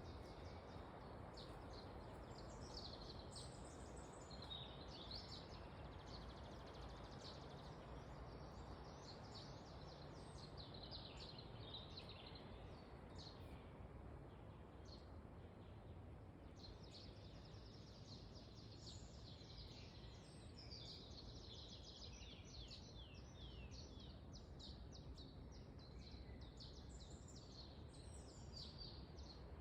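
Wind in a forest, a steady low rushing, with several small birds chirping and twittering in quick high notes; the birdsong thins out for a few seconds near the middle.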